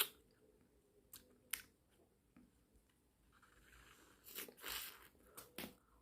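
Close-miked eating sounds of ice cream being bitten and chewed: a few sharp separate clicks, then a longer crunchy stretch in the second half.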